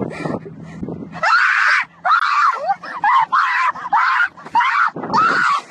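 A bird giving loud, harsh screeching calls over and over, about two a second, starting about a second in.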